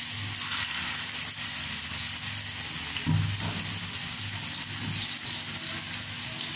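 Beef seekh kebabs sizzling as they shallow-fry in hot oil in a pan, a steady crackling fizz. A brief low knock comes about three seconds in.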